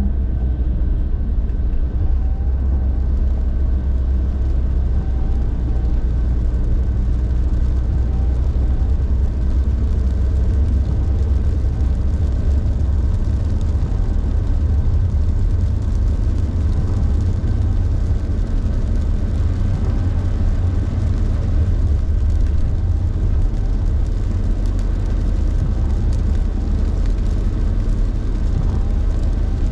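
Car on the move: steady low rumble of engine and tyres with an even hiss over it.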